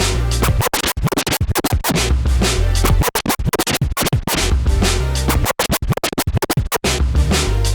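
Turntable scratching: rapid record scratches and chopped cuts played over a bass-heavy hip hop beat, the cuts thinning out near the end.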